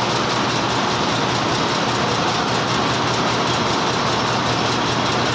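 A machine running steadily, a loud even noise over a low hum.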